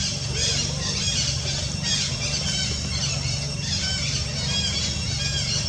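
Monkeys squealing: many short, high-pitched squeals overlapping one another throughout, over a steady low hum.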